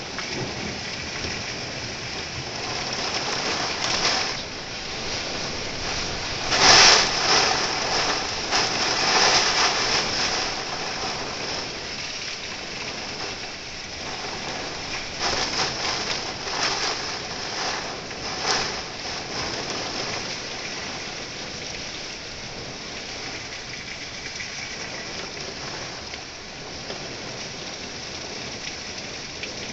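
Heavy rain pouring down in a thunderstorm, swelling louder in wind-driven gusts, the strongest about seven seconds in and several more around the middle.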